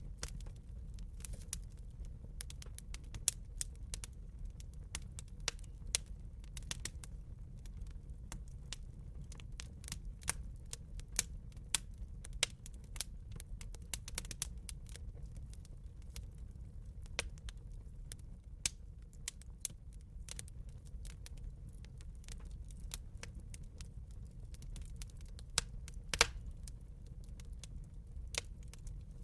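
Wood fire in a fireplace crackling: irregular sharp pops and snaps over a low, steady rumble of the flames, with one louder pop near the end.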